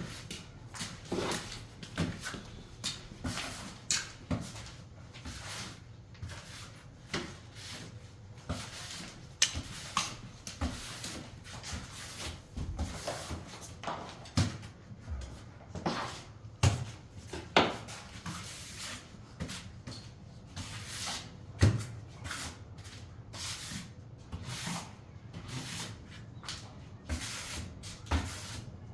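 Irregular knocks, taps and scrapes of hand work on tile, several a second, with a few louder knocks about two-thirds of the way through.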